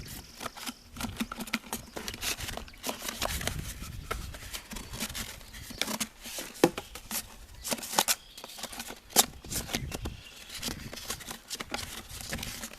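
A bent piece of wire scraping and poking inside a hollow dried birdhouse gourd, fishing out dried seeds and leathery pulp. The sound is irregular dry scratching and clicking, with a few sharper knocks in the second half.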